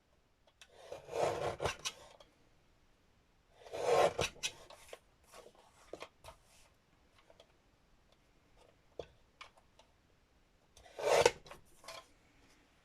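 Three short rasping rubs, each about a second long, with light taps and clicks between them: an edge of a lace-and-fabric-covered book cover being evened up by rubbing.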